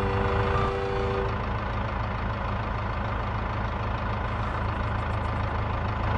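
A radio-controlled vehicle's engine sound idling steadily with a low, evenly pulsing rumble, as a held music note fades out in the first second or so.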